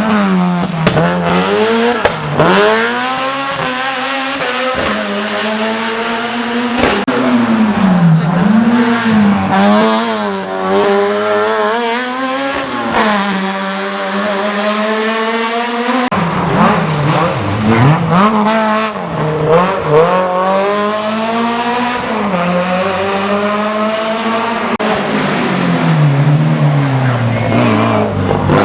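Racing car engine driven hard, revving up through the gears again and again, its pitch climbing with each gear and falling sharply at shifts and when braking.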